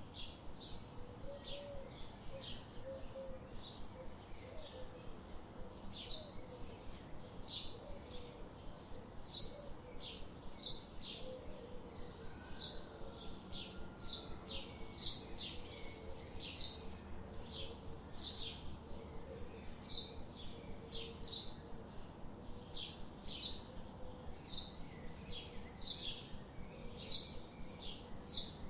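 Birds chirping: a steady run of short, high chirps, roughly one or two a second, over a faint background hiss, with a quieter wavering call lower in pitch underneath.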